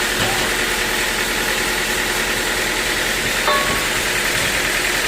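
Sawmill machinery running steadily, a constant mechanical hum with a short click about three and a half seconds in.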